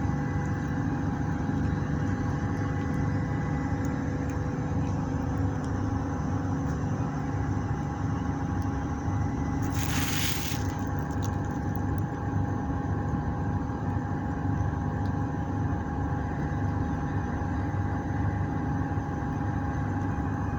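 An engine running steadily with a low, even drone, with a brief hiss lasting about a second halfway through.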